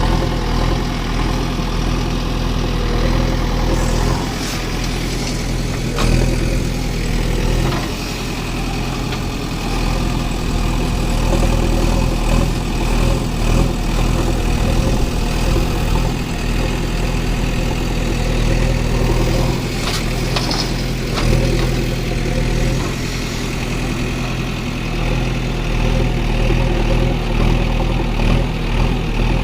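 Heavy diesel engine running steadily at about idle, with a few sharp knocks along the way.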